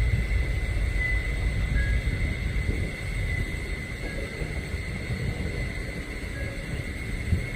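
Low, steady rumble of a diesel switching locomotive at work, under a steady high whine and a faint two-note chirp that repeats about every two seconds.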